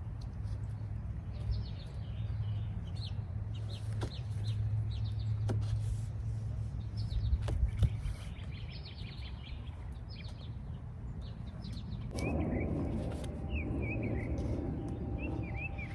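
Birds calling: many short, high chirps and twitters over a low, steady background rumble. About twelve seconds in, a louder rustling noise sets in, with warbling calls over it.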